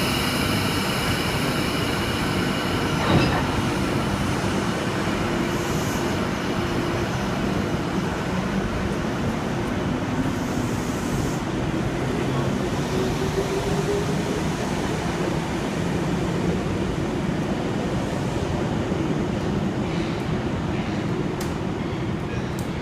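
Sydney Trains electric suburban train running at the platform, a steady rumble with a sharp knock about three seconds in and a tone that rises in pitch about ten seconds in as it gets under way.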